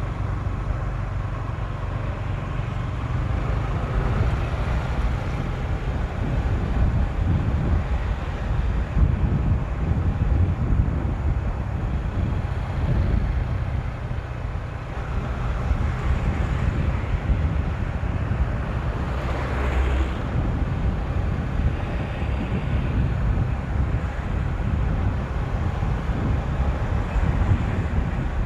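Motorcycle on the move, with heavy wind rumble on the microphone over the engine running.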